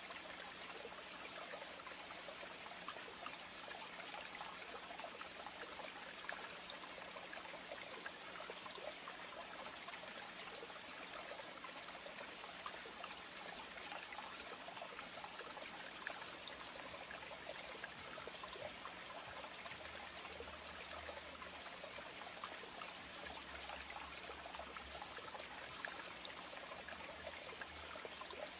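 Steady trickling water, an even crackling wash with no pauses, under a faint steady low hum.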